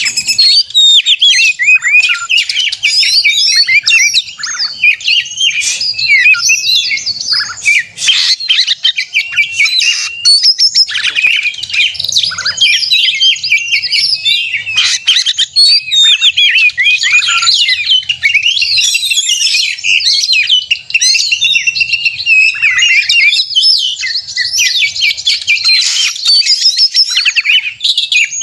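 Oriental magpie-robin singing loudly and almost without pause, a rapid run of varied whistles, chirps and harsh notes. This is the agitated, fighting-style 'konslet' song that provokes other magpie-robins to sing.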